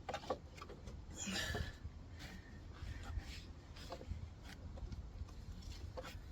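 Scattered light clicks and knocks of tools and parts being handled, with a brief rustling hiss about a second in, over a low steady background rumble.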